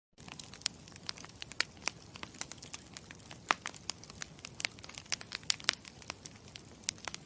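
Campfire crackling: irregular sharp pops and snaps over a soft low rush, cutting in just after the start and stopping abruptly at the end.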